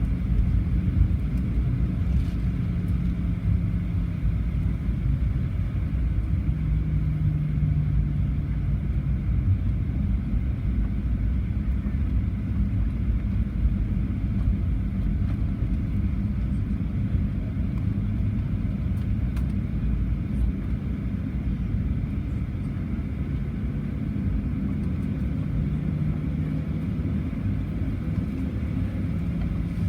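Cabin sound of a Boeing 737-800 taxiing on its CFM56-7B engines at idle: a steady low rumble with a hum that wavers slightly in pitch and swells a few times.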